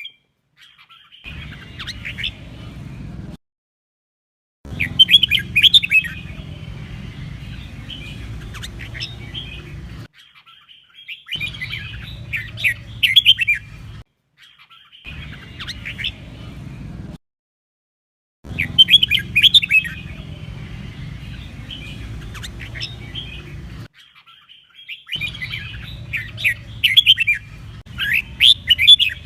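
Red-whiskered bulbul singing: bursts of quick, sharp whistled phrases, repeated over and over as a competitive-song training recording. A steady low background hum runs beneath the song, and the recording is broken by short dead-silent gaps every few seconds.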